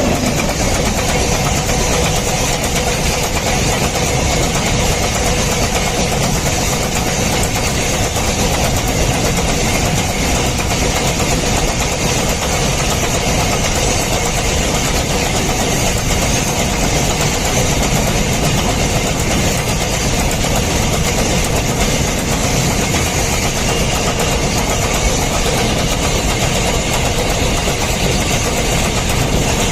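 Goods train of empty wagons running past at speed: a loud, steady rolling noise of wheels on rails that holds without a break.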